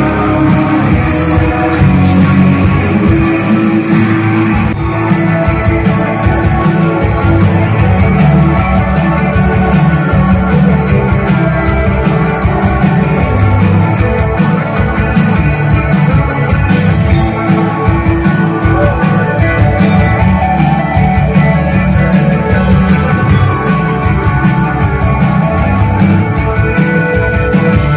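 Live indie rock band playing at full volume: layered, washy electric guitars over bass and a steady drum beat.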